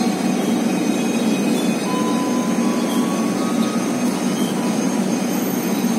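Passenger train coaches rolling slowly past along the platform: a steady, even rumble of wheels on rail, with faint thin high tones above it.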